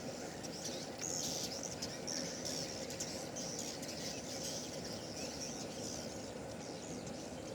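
Swiftlets twittering: a dense, continuous stream of short, high chirps over a steady background rush.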